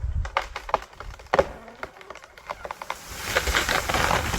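A tree trunk cracking and splintering as an elephant pushes the tree over: a series of sharp snaps, the loudest about a second and a half in, then a rushing crash of leafy branches near the end as the tree comes down.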